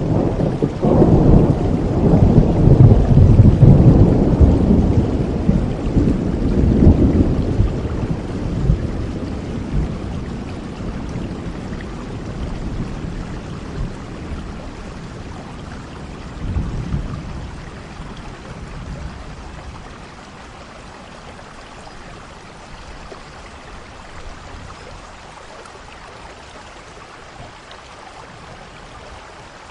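A long roll of thunder over steady rain, loudest in the first several seconds and dying away by about twenty seconds in, with a smaller rumble partway through; after that only the even hiss of the rain remains.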